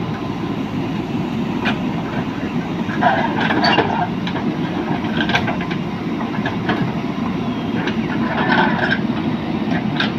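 Backhoe loader's diesel engine running steadily at work, with scattered knocks and clanks from the machine.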